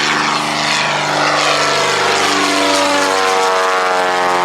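Propeller airplane flying low past, its engine drone loud and its pitch falling steadily through the second half as it goes by.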